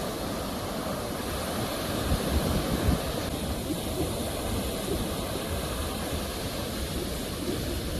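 Sea waves washing in: a steady rush of surf with a low rumble, swelling a little about two to three seconds in.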